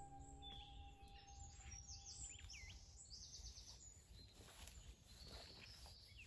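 Faint woodland birdsong: small birds giving short chirps and trills, over a low steady background rumble.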